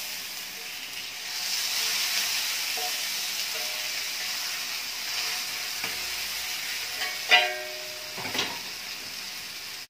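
Chapli kabab frying on a flat iron griddle (tawa) with a steady sizzle, while a metal spatula presses and scrapes it. There are a few sharp metal clinks of the spatula on the griddle, the loudest about seven seconds in.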